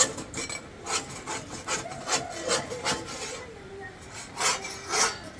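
Repeated rubbing or scraping strokes, about two a second. They pause for about a second after the middle, then come twice more near the end.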